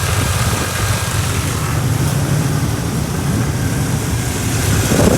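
Cammed 305 small-block Chevy V8 idling with a steady low rumble. It is running rough and shaking from a misfire, which the owner puts down to a spark plug wire burnt against the cylinder head.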